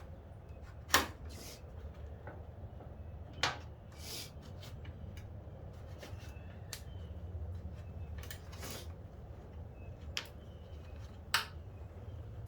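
About six sharp clicks and knocks of plastic seat trim being handled and snapped loose, the loudest about a second in, over a steady low hum.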